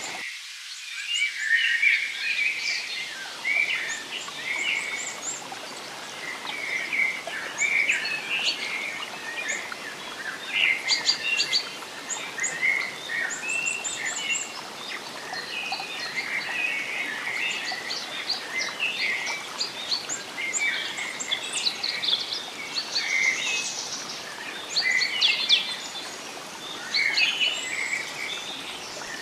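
A forest bird chorus, many birds chirping and trilling in quick overlapping calls, over a steady background hiss that fades in during the first couple of seconds.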